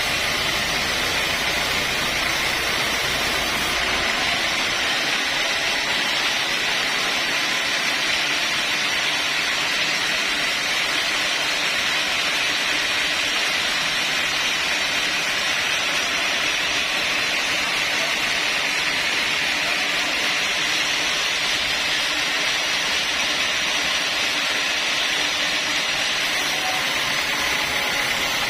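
Sawmill saw running steadily through mahogany timber: an even, unbroken noise with a thin high tone.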